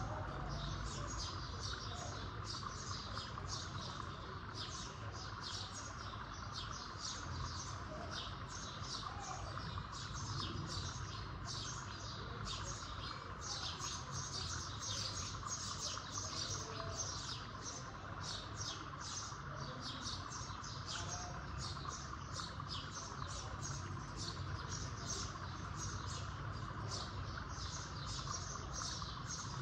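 Birds chirping continuously, short high chirps about two to three a second, over a steady hiss.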